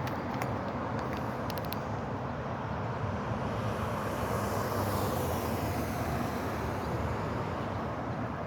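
Steady rush of water flowing in an irrigation canal, with a higher hiss that swells and fades around the middle.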